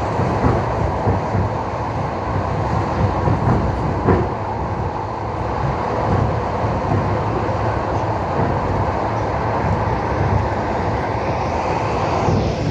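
Train wheels clattering over the rails while the train runs, over a steady rumble with scattered knocks from the rail joints. A hiss swells near the end.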